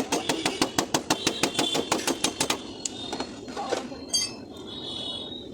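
Rapid, even light tapping of a small hammer and knock-down tool on a car door panel, about eight taps a second, during paintless dent repair. The tapping stops about two and a half seconds in.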